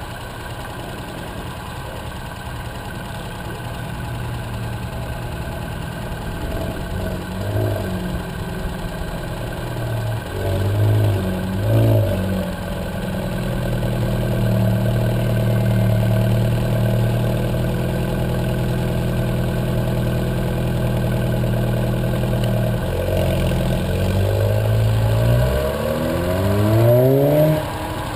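Alfa Romeo 4C's turbocharged four-cylinder engine running at low speed, with a few short blips of revs about a third of the way in. Near the end it makes two rising pulls as it accelerates.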